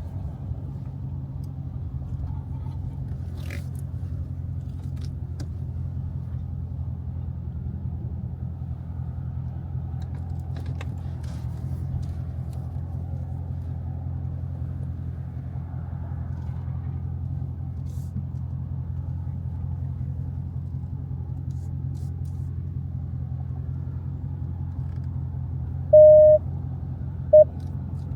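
Dodge Challenger Scat Pack's 6.4-litre 392 HEMI V8 idling steadily, a deep even sound with no revving. Near the end a high electronic beep sounds, then short beeps about once a second.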